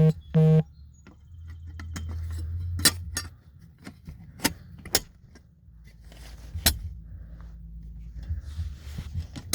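Two short electronic beeps, then a low hum lasting about two seconds and scattered sharp metallic clicks and clinks: hardware being handled while a metal electrical box cover is put back on.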